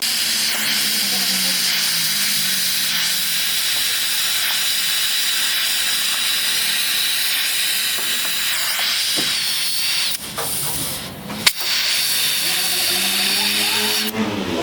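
A steady, loud hiss from a jet of air or gas, as from a pneumatic tool on car bodywork. It breaks off for about two seconds, with a sharp click in the gap, then starts again and stops shortly before the end.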